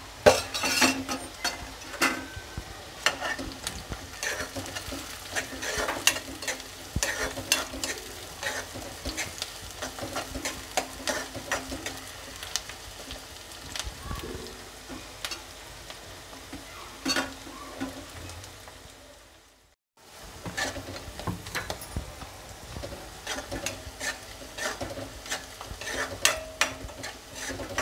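Sliced onions and green chillies sizzling in hot oil, butter and ghee in a metal kadai, with a spoon scraping and clicking against the pan as they are stirred. The sound drops out briefly about twenty seconds in, then the frying and stirring carry on.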